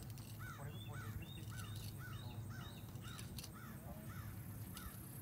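A bird calling over and over in short, arched notes, about two to three a second, over a steady low hum.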